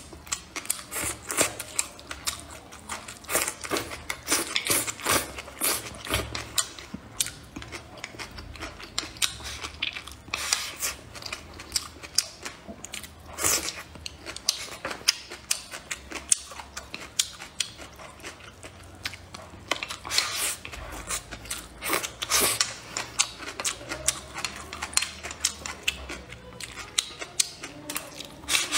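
Close-up chewing of a mouthful of braised pork and rice: a dense, irregular run of wet clicks and smacks, with a few louder crunches.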